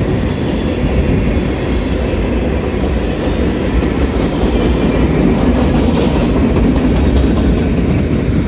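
Freight train of covered hopper cars rolling past: steady noise of steel wheels on the rails.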